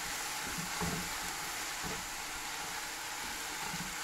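Mushrooms and onions sizzling steadily as they fry in butter in a frying pan, with a few faint knocks from a spatula stirring them.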